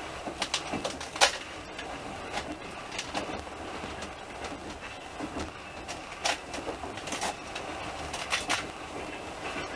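A passenger train running, heard from inside the carriage: a steady rumble and rush with irregular sharp clicks and rattling knocks, the loudest about a second in.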